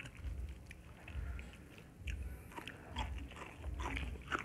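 Close-miked mukbang eating sounds: two people chewing and biting pork and rice, with wet mouth clicks and smacks over a steady chewing rhythm of about two chews a second.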